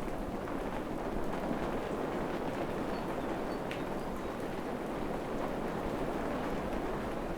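Steady, even rain falling in a forest, a continuous hiss with no let-up. A few faint, short high chirps come through about halfway.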